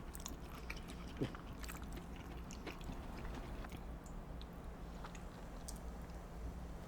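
Close-miked chewing of sushi: faint, scattered wet mouth clicks and smacks, with one brief low sound about a second in.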